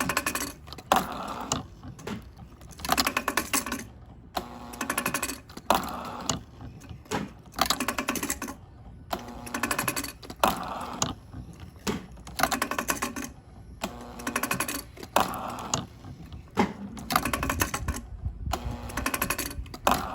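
Homemade low-RPM hydraulic engine running, giving a burst of rapid mechanical clicking roughly every second, in a repeating cycle.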